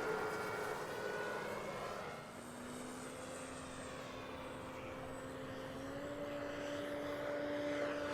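Electric-powered radio-control P-47D warbird in flight: its electric motor and 15x10 propeller give a steady whine. The whine dips in level about two seconds in, then rises a little in pitch and level near the end as the plane comes closer.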